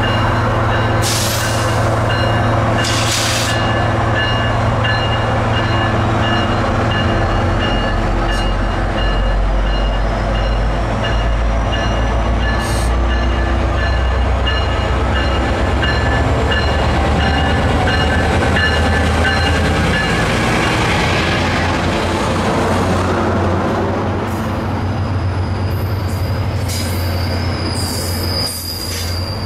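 Diesel locomotive of a FrontRunner commuter train running under load as the train pulls out, a loud steady engine drone with a high ring repeating over and over for the first two-thirds. Near the end the wheels start squealing as the coaches roll past.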